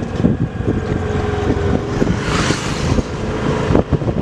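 Vehicle motor running at low speed under wind buffeting the microphone, with irregular knocks; a gust of wind noise swells and fades about halfway through.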